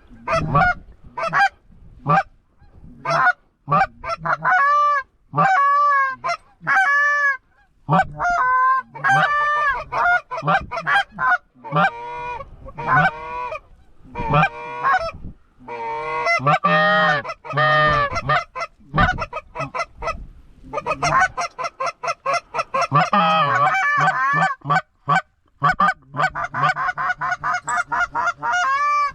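Canada geese honking and clucking: short calls in quick series that crowd into many overlapping honks over the last third.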